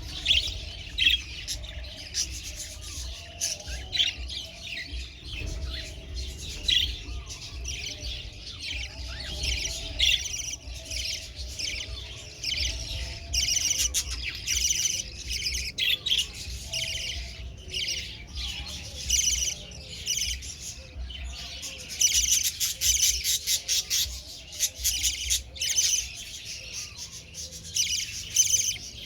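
Budgerigars chattering: a continuous stream of rapid chirps and squawks, densest near the end.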